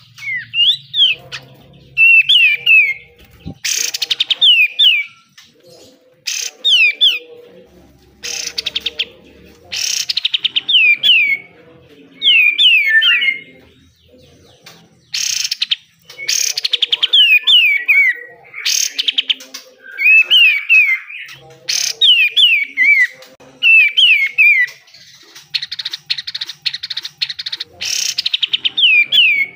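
White-shouldered triller (kapas tembak) singing: quick runs of short, falling whistled notes, interspersed with loud, harsh, rapid rattling bursts, its 'besetan' calls. A long rattle runs from about 25 to 28 seconds in.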